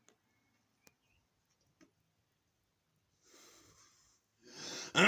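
A man breathing audibly after a few faint clicks, with one breath and then a louder one that ends in a voiced sigh with falling pitch.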